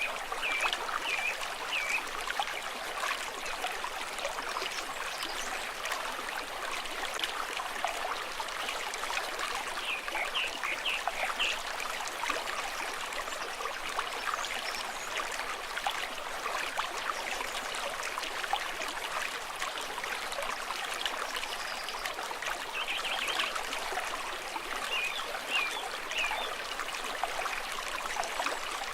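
A stream flowing and trickling steadily over stones. A few short, high chirps come in small clusters near the start, about ten seconds in, and again near the end.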